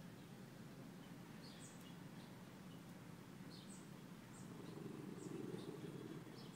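Faint small-bird chirps in the background: short, high, falling calls about once a second, over a steady low background noise that swells briefly about five seconds in.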